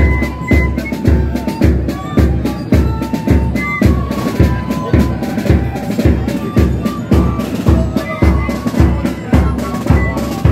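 Marching band drumming in a street procession: a bass drum beating steadily about twice a second with snare drums, and short high notes from a melody instrument over it.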